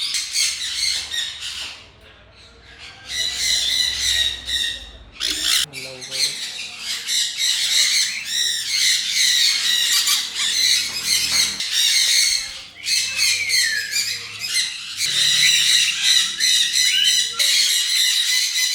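Many caged parrots squawking and chattering at once in a dense, shrill din, with a short lull about two seconds in.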